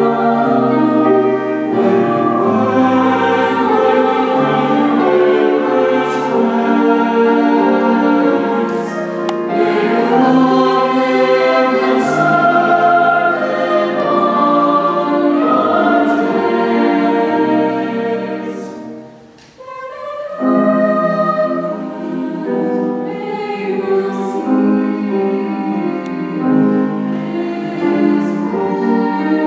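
Chamber choir singing in harmony, with sustained chords and crisp sibilant consonants. The singing breaks off briefly about two-thirds of the way through, then takes up the next phrase.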